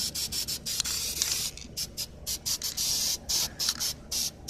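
Aerosol can of black spray paint hissing in a string of short and longer bursts, started and stopped many times as the nozzle is pressed and released.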